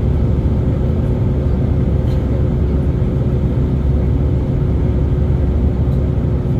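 Cabin noise of an Airbus A319 in flight: a steady low rumble of engines and airflow with a steady hum over it.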